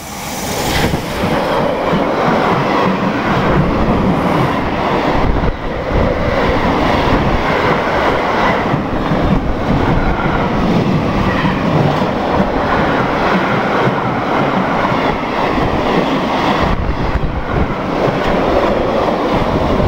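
Freight train of double-deck car-carrier wagons, hauled by an electric locomotive, passing close by. It builds within the first second as the locomotive arrives, then holds as a loud, steady rolling noise of wagon wheels on the rails.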